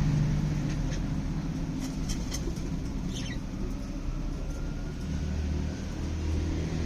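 A few faint, short chirps from small caged birds, budgies or lovebirds, over a low steady rumble.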